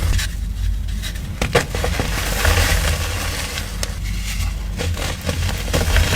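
Crunchy crumbly material being crushed and crumbled close to the microphone: irregular crackling and crunching with scattered sharp clicks, over a low rumble of handling.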